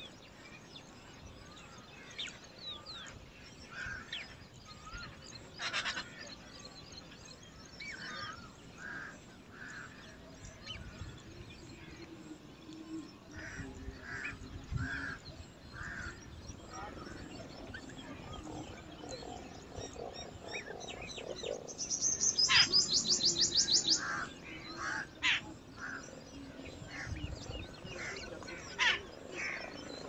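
Birds chirping and calling. About three-quarters of the way through comes the loudest sound: a rapid, high-pitched trill of quickly repeated notes lasting about two seconds.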